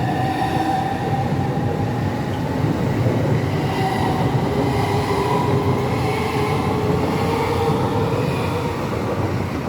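Southeastern Class 395 high-speed electric train departing and accelerating away, its traction motor whine made of several steady tones that slowly glide in pitch over a continuous rumble.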